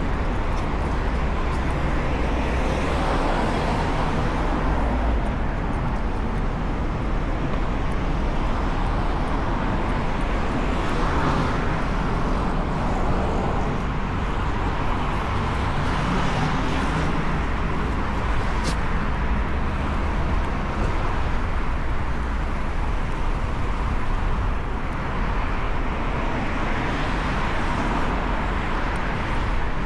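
City road traffic: a steady rumble of engines and tyres, with several vehicles swelling past in turn.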